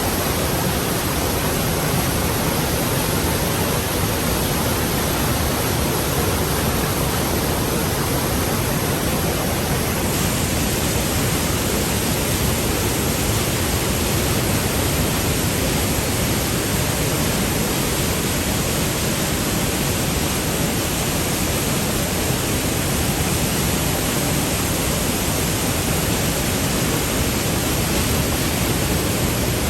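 Rhine Falls waterfall: a steady, dense rush of heavy falling water.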